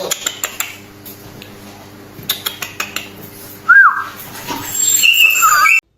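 A husky crying out in high-pitched whines: a loud falling whine a little past halfway and a run of high whines near the end, with light clicks and taps earlier, over a steady hum.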